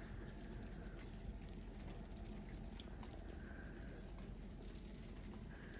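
Faint, steady patter of a falling rain-and-snow mix, with scattered small drips.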